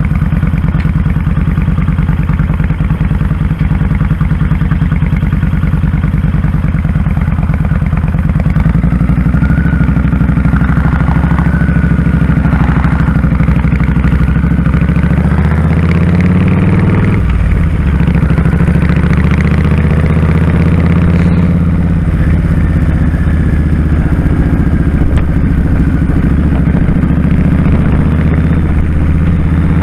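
2001 Kawasaki Drifter 1500's V-twin engine running under way on a ride, a steady throbbing note. The engine note changes about nine seconds in and dips briefly around seventeen seconds before picking up again.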